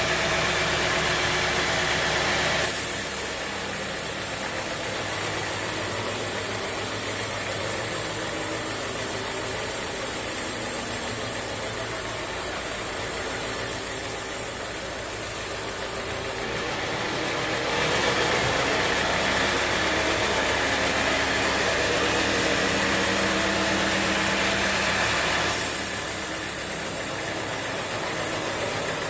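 Sawmill bandsaw running steadily with its engine, the sound turning harsher and brighter and then duller again in long stretches of several seconds.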